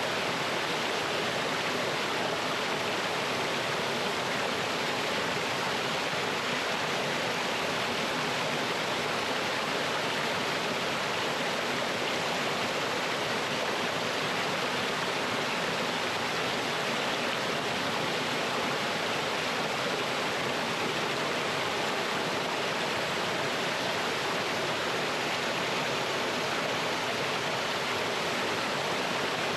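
Mountain stream water rushing over rocks and down a small waterfall: a steady, unbroken rush.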